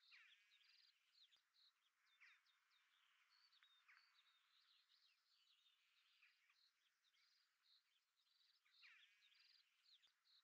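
Near silence, with faint birdsong: repeated chirps, short trills and quick falling notes throughout.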